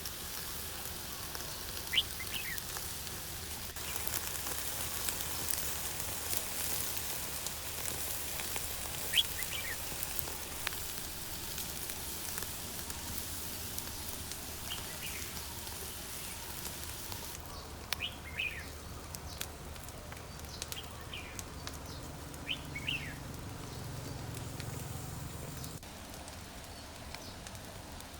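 Small birds chirping, short calls repeating every few seconds, over a steady hiss. The hiss drops away sharply a little past halfway.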